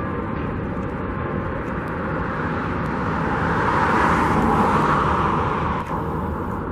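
Steady road-traffic rumble, with one vehicle passing that rises to its loudest about four seconds in and then fades.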